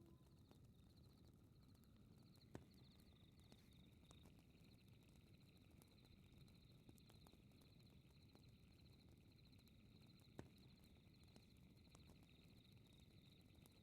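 Very faint fireplace ambience: a low steady fire rumble with high, rapid chirping, and two sharp crackles about two and a half seconds and ten seconds in.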